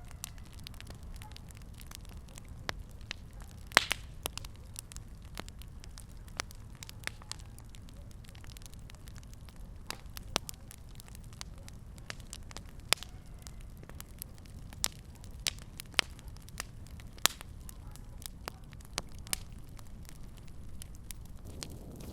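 Fireplace fire crackling: irregular sharp pops and snaps, some louder than others, over a steady low rumble of the flames.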